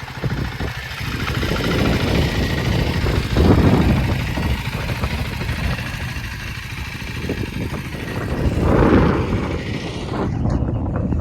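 Motorcycle engine running under a steady rush of wind noise, swelling twice; the wind rush cuts off near the end.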